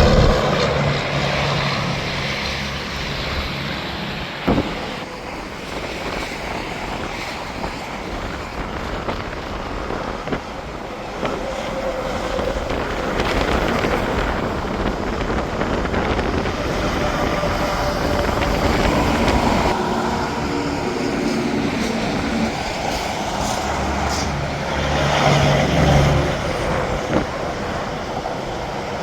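Steady interstate traffic, with tyre noise from trucks and cars passing continuously. A truck's engine is loudest right at the start and another passes close about 25 seconds in, with a short sharp knock about four and a half seconds in.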